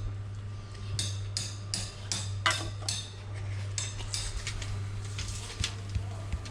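Steel bricklaying trowel working mortar: a quick run of metallic scrapes and taps, about two to three a second, over a steady low hum.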